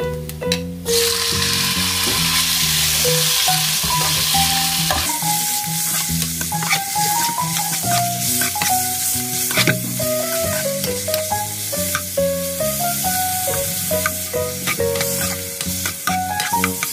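Diced raw chicken hitting hot oil and garlic in a nonstick wok, sizzling from about a second in. From about five seconds in a spatula stirs the pieces around the pan, with frequent clicks and scrapes over a lighter sizzle.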